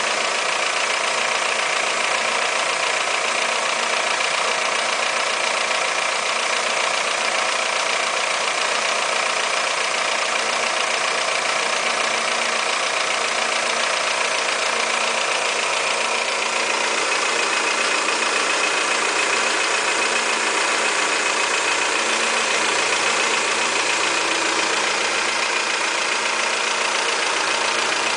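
Toyota 5S-FE 2.2-litre four-cylinder engine idling steadily, heard mostly as an even mechanical whirr with little low rumble. It is the original engine, at 223,000 miles.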